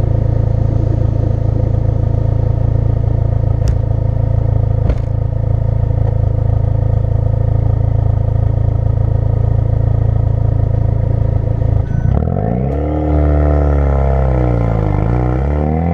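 2016 Ford Focus RS's 2.3-litre turbocharged four-cylinder running steadily through a custom-built exhaust, with a low drone. About twelve seconds in, the engine note changes, sweeping down in pitch and climbing again.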